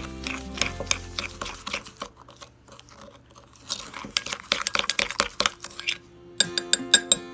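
Utensil clicking and clinking against a dish in quick, uneven strokes, typical of stirring or mixing, over background music; the clinks come mostly after the middle and again near the end.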